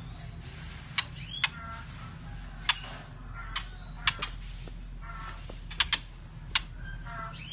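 White-rumped shama giving sharp clicking call notes, about nine at irregular intervals, mixed with short faint rising whistled notes.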